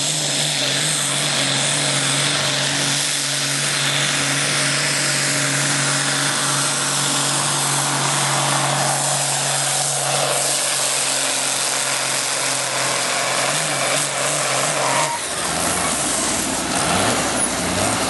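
First-generation Dodge pickup's 5.9-litre Cummins turbo diesel inline-six pulling hard under load at steady high revs. About fifteen seconds in, the steady engine note drops away and a lower rumble follows as the run ends.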